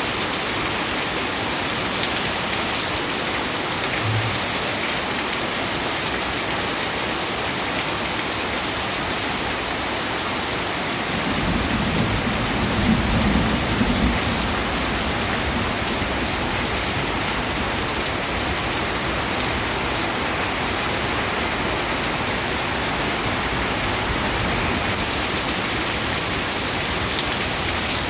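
Steady heavy rain hissing down, with a low roll of thunder rumbling for a few seconds about halfway through.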